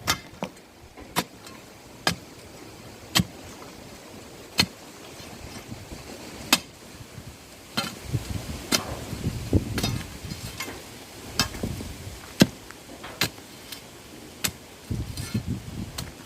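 Sharp knocks of hand tools striking, one every second or two at first and then more irregular, with low scraping and rustling between them, as pits are dug and posts set for a goat shed.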